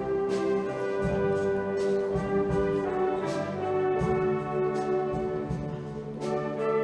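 Brass-led band music with held chords changing a few times, over a steady beat of low drum hits: the live band accompanying a show choir performance.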